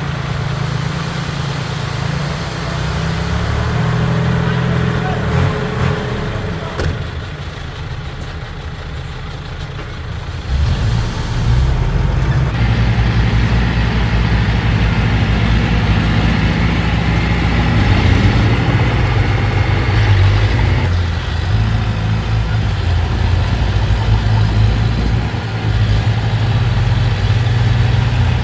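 Heavy diesel engine of earthmoving machinery running steadily under load. It eases off for a few seconds, then comes back louder about a third of the way in.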